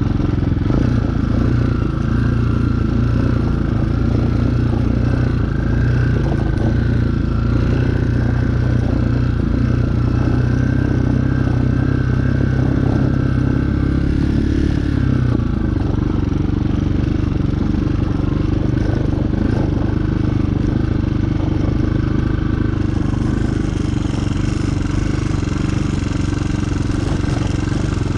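Chinese 250cc dirt bike engine running steadily under way. Its note shifts about halfway through.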